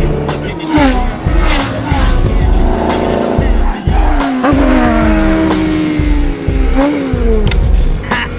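Race car engines revving and passing by, several times with a falling pitch, with tyres squealing, over music with a steady low beat.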